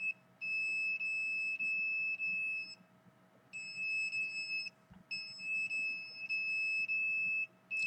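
A meter's electronic alarm beeping: a high-pitched steady tone sounding in long beeps with brief gaps between them, pausing for under a second near the middle.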